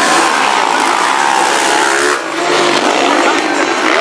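Several motocross dirt bikes racing, their engines running and revving together, with a brief drop in loudness just after two seconds in.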